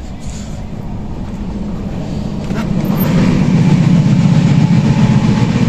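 Steady running noise of a moving passenger train, a low rumble inside the coaches, growing louder about halfway through as the vestibule by the doors between coaches is reached.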